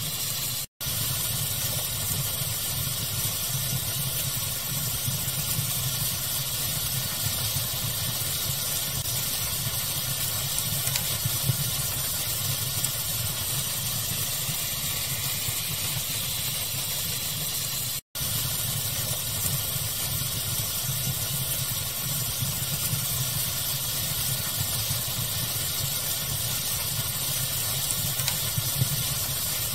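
Fireplace ambience blended with pink noise: a steady, even hiss with a few faint crackle pops. It cuts out for an instant twice, about a second in and again around eighteen seconds.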